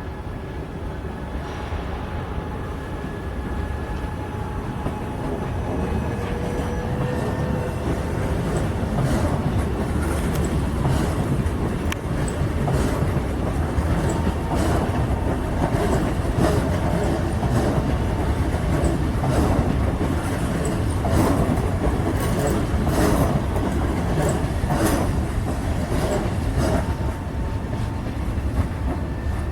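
Historic steam train running on the rails, with a steady rumble that grows louder. Sharp clicks come about once a second through the second half.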